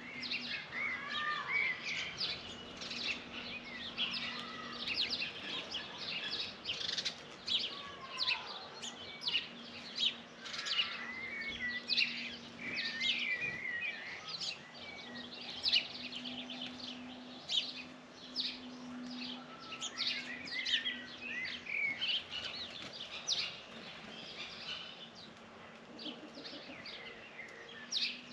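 Many small birds chirping and twittering at once, short calls and trills overlapping without a break. A faint low steady hum comes and goes underneath.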